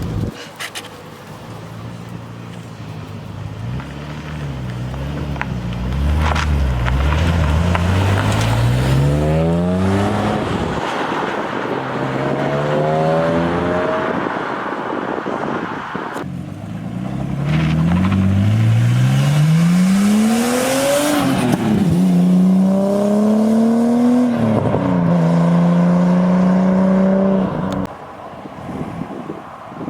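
Car engines accelerating hard away from a standstill, the pitch climbing and dropping back at each gear change.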